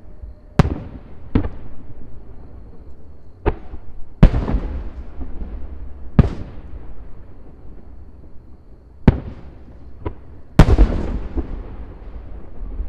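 Fireworks shells bursting in a display: about eight sharp booms at uneven intervals, each trailing off in an echo. The loudest come about four seconds in and near the end.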